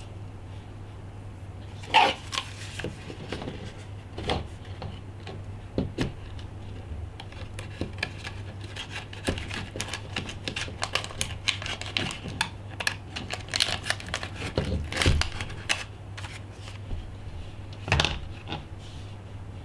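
Small repair tools and parts clicking and tapping against an iPhone 5 as it is taken apart, in irregular light strokes with a few sharper clicks, over a steady low hum.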